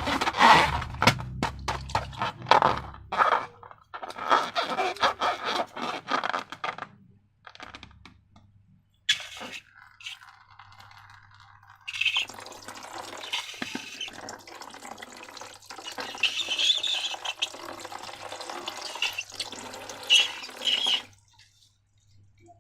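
Wet slime being squished and poured by hand, with sticky, crackly squelching in spurts. A longer stretch of continuous wet crackling in the second half stops abruptly near the end.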